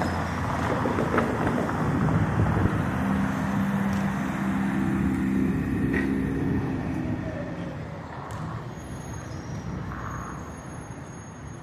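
City street traffic with a heavy vehicle passing: its engine hum grows through the first half, then fades away over the last few seconds.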